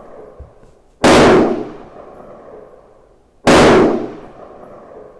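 Two shots from a Tikka T1x .22 LR rimfire rifle firing Norma ammunition, about two and a half seconds apart, each a sharp crack with a ringing tail that dies away over about a second.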